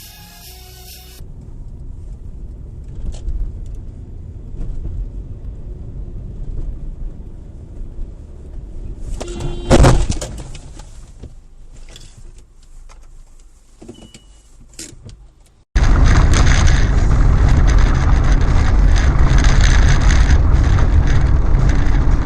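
Car dashcam audio: low steady road rumble, then one loud bang about ten seconds in, typical of a collision. A few fainter knocks follow, then a sudden cut to a much louder steady rumble.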